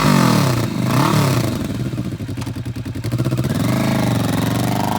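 2019 Kawasaki Vulcan S's 650cc parallel-twin engine being revved: the revs fall from a blip at the start, blip again about a second in, settle lower, then climb steadily near the end.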